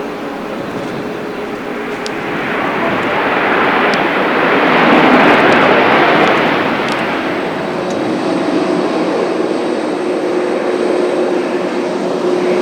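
Airliner on landing approach passing by, its engine noise swelling to a peak about five seconds in and then easing off into a steady engine hum, heard through wind noise on the microphone.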